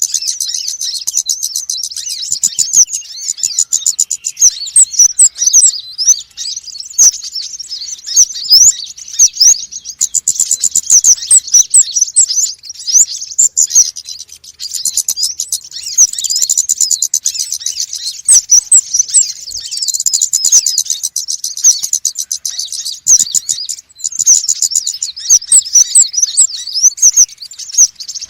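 Small sunbirds, the birds known in Indonesia as konin and wulung, chirping and twittering noisily in a dense, rapid, high-pitched stream of calls, with a few brief lulls.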